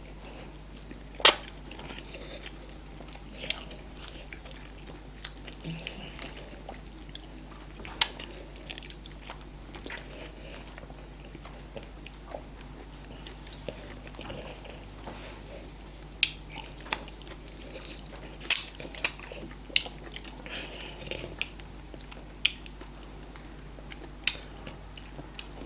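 Close-miked eating of fufu and okra soup: wet chewing and mouth smacks, with scattered sharp clicks and knocks, the loudest about a second in and near the three-quarter mark, over a low steady hum.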